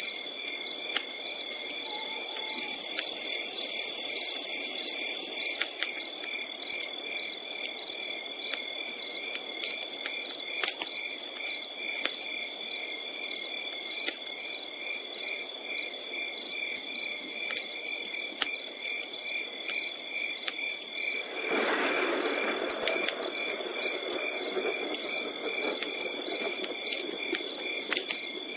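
Crickets chirping in a steady, regular rhythm over a constant high insect drone, with the sharp clicks of a campfire crackling. About 22 seconds in, a soft rushing noise swells up and then eases off.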